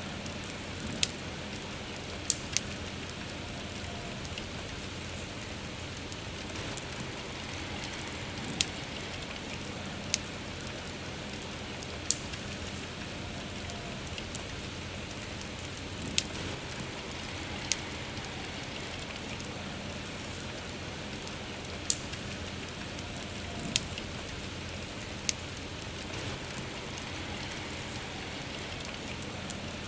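Steady rain falling, with a wood fire crackling: sharp, irregular pops every second or two over the even hiss of the rain.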